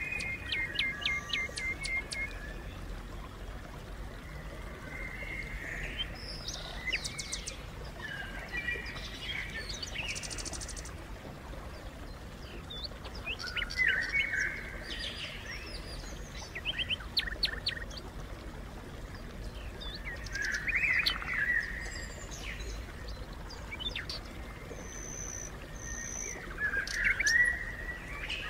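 Songbirds chirping and calling, with short chirps and quick trills coming in clusters every few seconds.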